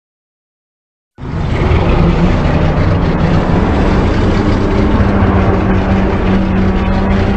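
A designed kaiju monster sound effect that starts suddenly about a second in: a loud, steady, engine-like rumble with a held low hum running through it.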